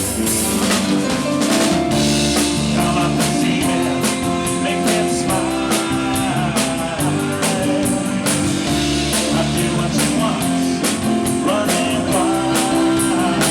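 Live rock band playing: electric guitar, bass and drum kit with a steady beat of regular drum hits.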